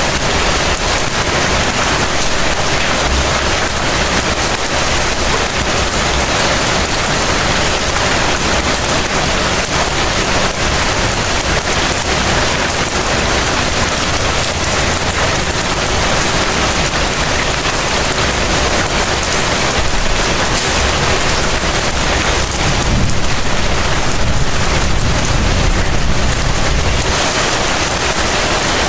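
Heavy rain falling steadily, a dense, even hiss. A low rumble swells briefly about three-quarters of the way through.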